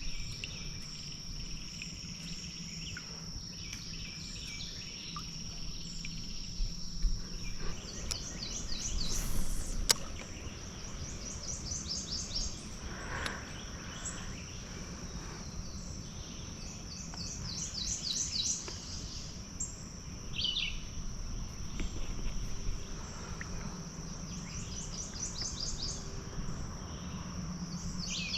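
Wilderness river ambience: a steady high insect drone, with a bird singing short trilled phrases again and again every few seconds. There is one sharp click about ten seconds in.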